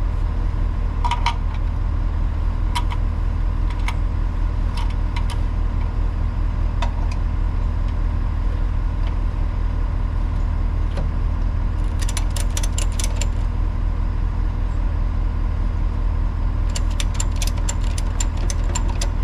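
A vehicle engine idling steadily, with a few short bursts of light metallic clicking and jingling, the longest about twelve seconds in and again near the end.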